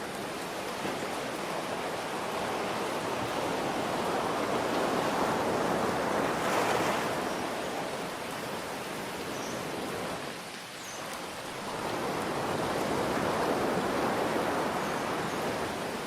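Ocean surf rolling in and washing back over steady rain. One wave swells up about six seconds in, the sound drops away briefly near the eleventh second, and a second wave builds after it.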